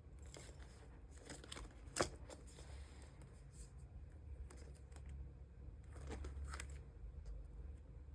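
Plastic photocard sleeves and binder pages being handled, with soft rustling and crinkling and one sharp click about two seconds in.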